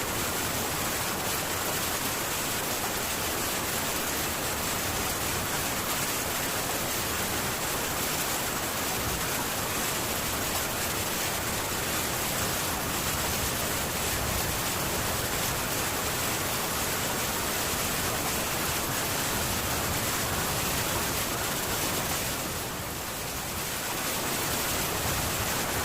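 Heavy rain falling steadily on a metal tin roof, an even hiss with no thunder, easing slightly for a moment near the end.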